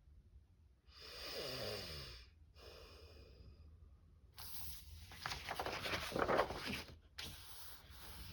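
A breathy vocal sigh or hum with a falling pitch, then paper rustling and crinkling as it is handled.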